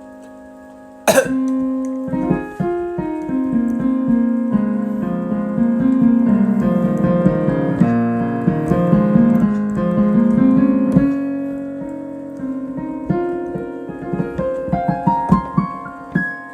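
Solo improvised piano playing. A held chord dies away, then a loud chord is struck about a second in and opens a flowing run of notes in the middle range that swells and then fades. A rising figure comes near the end.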